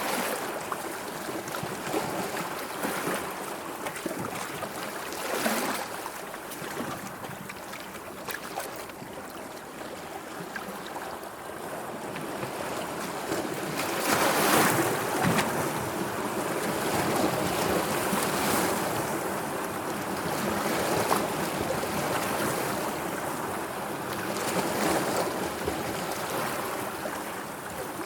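Sea waves washing and lapping in a continuous hiss that swells and eases, with a louder surge about halfway through.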